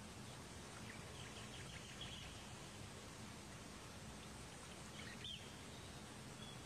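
Steady outdoor background hiss with faint, high bird chirps in the first couple of seconds and one brief bird call about five seconds in.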